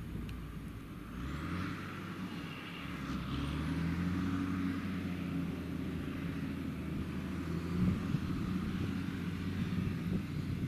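Heavy diesel farm machinery running, its engine pitch stepping up about a second in and again about three seconds in, then holding steady.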